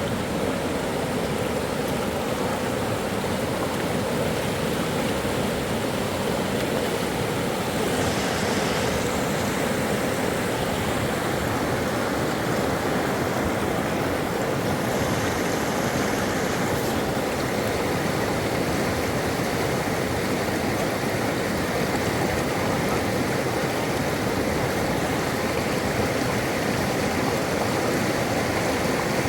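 Flowing river rushing, a steady unbroken noise of fast water.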